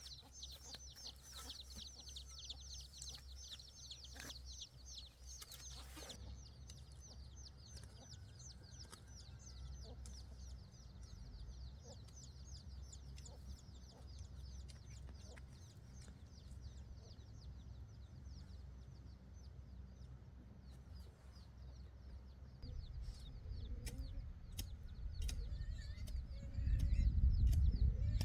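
Chickens peeping with rapid, high cheeps repeated many times a second, loudest in the first few seconds. A low rumble grows louder near the end.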